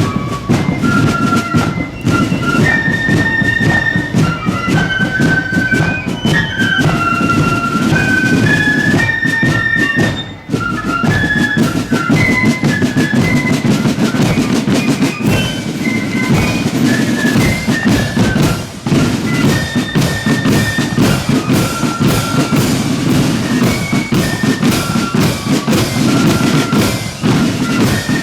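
Marching flute band playing a tune: high flutes carry a stepping melody over fast, dense snare drumming and bass drum beats. The music dips briefly about ten seconds in, then carries on.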